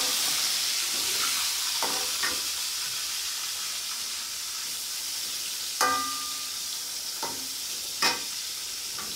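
Food sizzling as it fries in a pan, the hiss slowly easing, with a metal utensil clinking against the pan several times; the loudest clink, about six seconds in, rings briefly.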